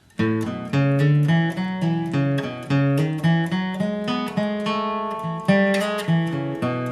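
Acoustic guitar flatpicking a bluegrass lead line: a quick run of single plucked notes with pull-offs, ending on a ringing chord near the end.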